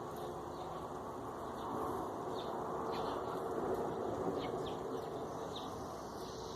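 Small birds giving a few short, high chirps over a steady rushing outdoor background noise. Near the end a steady high insect trill comes in.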